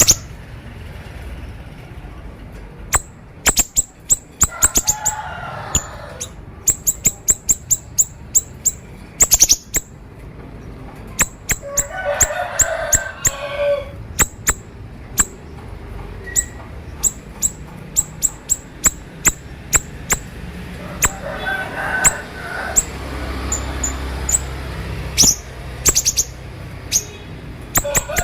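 Siri-siri bird in a rapid 'konslet' song: fast runs of sharp, high, clicking notes, broken by three short spells of lower chattering.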